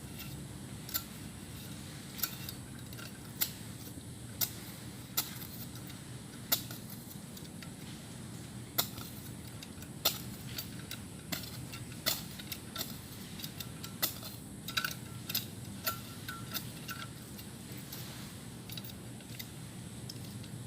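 Digging a small, narrow hole in the ground with a hand tool: a series of sharp strikes and scrapes into the soil, irregular and roughly one a second.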